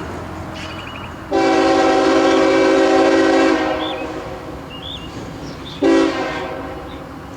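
A CSX freight locomotive's air horn sounds one long blast of about two seconds, then a short blast a couple of seconds later, over the low rumble of the passing train.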